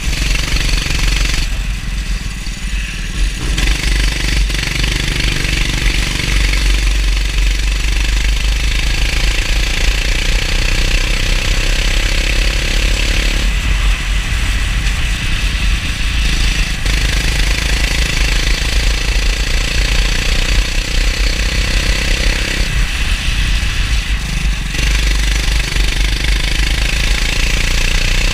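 Go-kart engine running at racing speed, its pitch rising and falling as the throttle is lifted for corners a few times and then opened again, over steady wind and wet-track noise.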